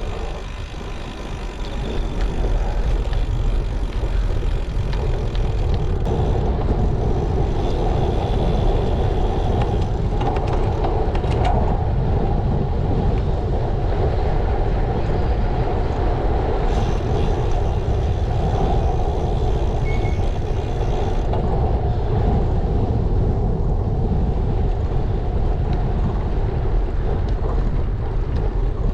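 Steady wind rumble over a GoPro's microphone with road and tyre noise from a moving bicycle, a little quieter at first and steadier from about two seconds in.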